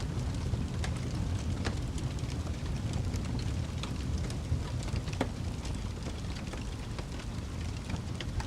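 Wood fire burning in a fireplace: a steady low rumble of flames with frequent irregular crackles and pops of burning logs.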